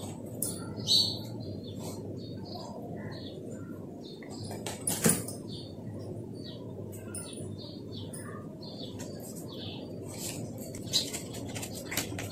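Birds chirping in short, scattered calls over a steady low background hum, with a few sharp clicks and rustles of paper being handled, the loudest about five seconds in.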